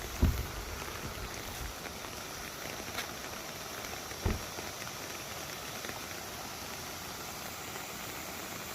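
Steady rush of a flowing valley stream, with two brief low thumps, one right at the start and one about four seconds in.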